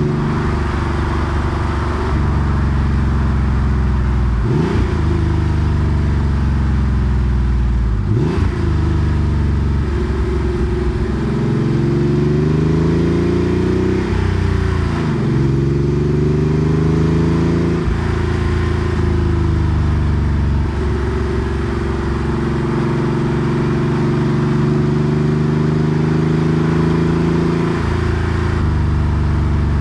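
Porsche 964 Carrera 2's air-cooled 3.6-litre flat-six through a centre straight-through muffler, driven on the road: the exhaust note climbs with the revs under acceleration and drops sharply at several gear changes, with steadier cruising stretches in between.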